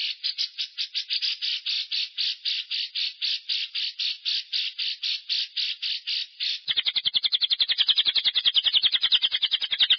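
Lovebird 'ngekek': a long unbroken chattering call of rapid shrill repeated notes, about five a second, which switches near the end to a louder run roughly twice as fast.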